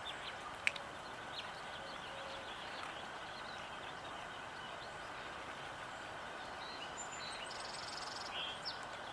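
Small songbirds chirping now and then over steady outdoor background noise, with a single sharp click just under a second in.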